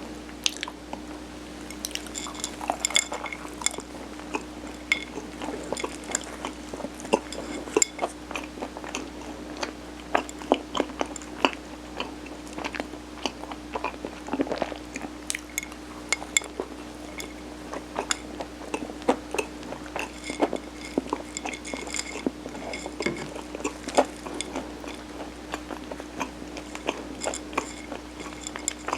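Close-miked chewing of soft, sticky steamed rice cake (mung bean sirutteok): many irregular wet mouth clicks, with now and then a light clink, over a steady faint hum.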